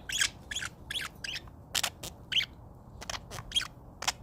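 Pet parakeet chirping: a quick, uneven run of short, sharp, high chirps, about three a second.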